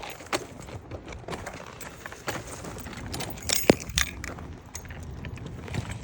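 Metal shopping cart rattling and clattering as it is pushed over pavement, a run of scattered clicks with one sharp clack a little past halfway, over wind buffeting the microphone.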